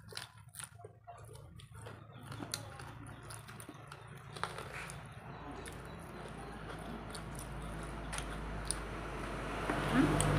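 Close-up chewing and crunching of crunchy food, with sharp crunches in the first couple of seconds. Under it a low rumble and hiss grows steadily louder toward the end.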